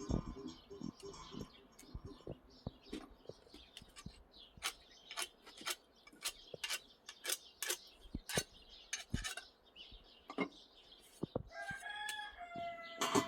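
Scattered sharp taps and clicks, then, about twelve seconds in, a rooster crows in one long call.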